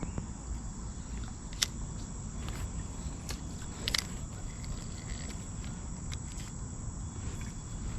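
Crickets chirping in a steady series of short, high pulses over a low rumble. Two sharp clicks stand out, about a second and a half in and again about four seconds in.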